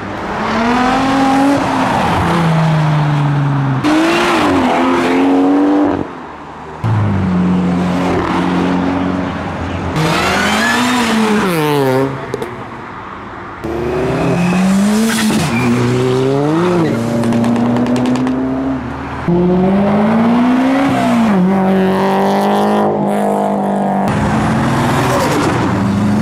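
Modified car engines revving as the cars drive past one after another, the pitch climbing and dropping with each rev. The sound cuts off sharply several times between cars.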